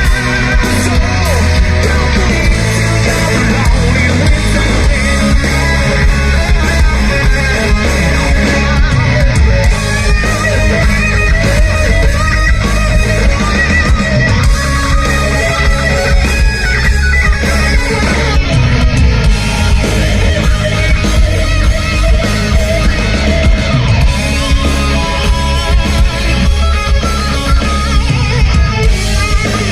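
Live heavy metal band performance: distorted electric guitars, bass and drums playing loud and steady, with some harsh vocals.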